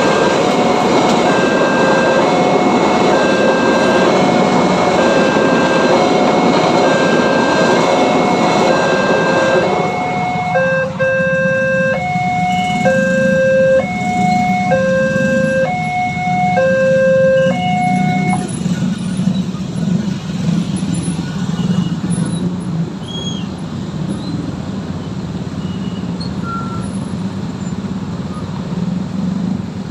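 Level-crossing warning alarm sounding an alternating two-tone signal, about one tone a second, while a passing train rumbles through; the train noise ends about ten seconds in. The alarm stops a little before halfway, leaving the steady engine noise of waiting road vehicles.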